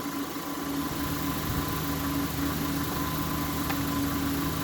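Steady mechanical hum of a motor running in the background, holding an even pitch.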